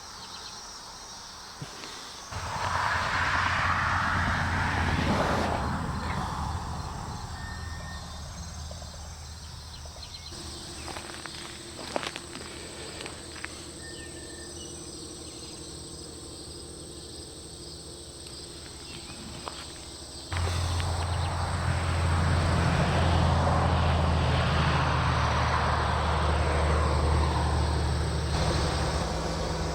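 Insects, crickets among them, trilling steadily. Twice a low hum with a rushing noise comes in suddenly and swells for several seconds, loudest near the end.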